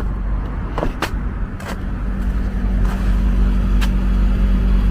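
Travel trailer's air conditioner running while its refrigerant is topped up, a steady hum with a few light clicks.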